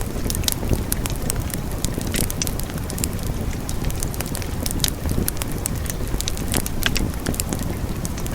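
Wood fire burning, with frequent sharp crackles and pops at irregular intervals over a steady low rushing noise.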